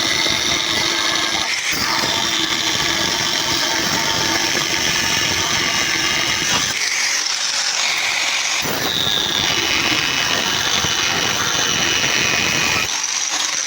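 A handheld power tool running steadily, with a dip in its lower sound from about seven to eight and a half seconds in, then stopping shortly before the end.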